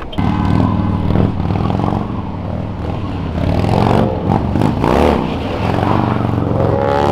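A car's engine running loud and being revved, its pitch rising and falling several times.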